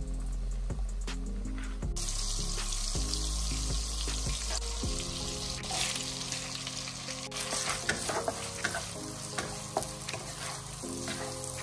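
Butter and chopped garlic sizzling in a hot wok, fried until fragrant, with the spatula scraping and tapping the pan as it stirs. The sizzle sets in strongly about two seconds in.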